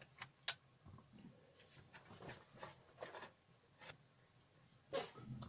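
Faint handling noises of tools and a circuit board being picked up and moved: scattered small clicks and light rubbing, with a sharp click about half a second in and a louder rustle near the end.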